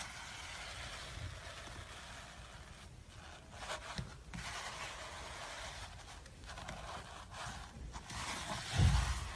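Slime being worked by hand: a steady soft rustling, scraping noise with small crackles, and a low thump near the end.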